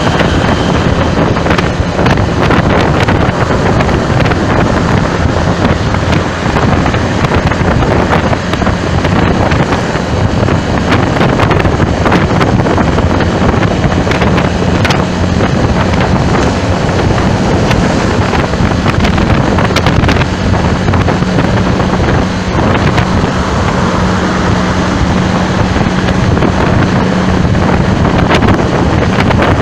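Wind buffeting the microphone with a crackle, over steady vehicle and traffic noise that includes a low engine drone.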